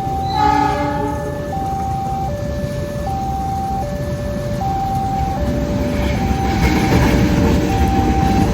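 Railway level-crossing warning alarm sounding in two alternating tones, high and low, over and over. A short train horn blast about half a second in, and the rumble of a train building up in the second half.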